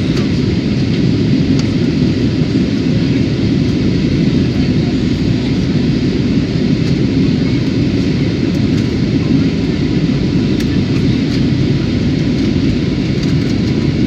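Passenger aircraft noise heard from inside the cabin: a loud, steady rumble of engines and airflow, heaviest in the low end, holding even throughout.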